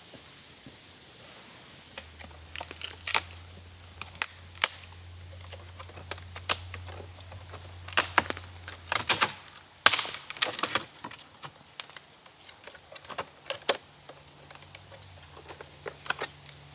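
Irregular sharp knocks and clicks, some coming in quick clusters and the loudest about halfway through, over a faint low steady tone that shifts higher partway through.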